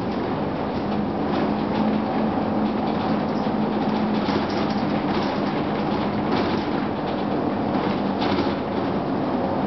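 Diesel transit bus with a Cummins ISM inline-six diesel engine, running with a steady drone, a low hum and scattered rattles, the HVAC blowing.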